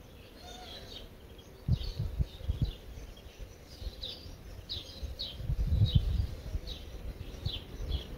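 A songbird repeating short, high chirps, each falling in pitch, one after another. Low rumbling bursts come in under them about two seconds in and again around six seconds, and these are the loudest sounds.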